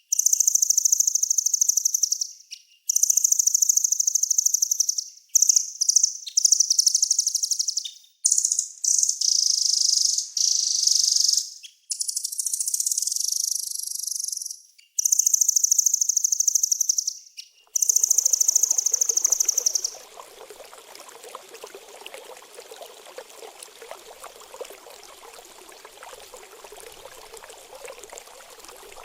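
A small songbird's very high, rapid trilling song, in bursts of two to three seconds with short gaps. About two-thirds of the way through it gives way to the steady, quieter sound of running, trickling water.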